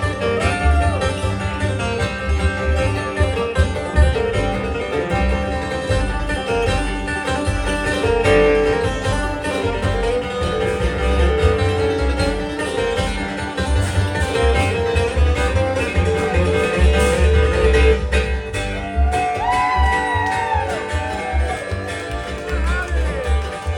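Live bluegrass band playing an instrumental passage on banjo, fiddle, mandolin, acoustic guitar and bass, with a steady bass pulse under the picking and some sliding notes about three-quarters of the way through.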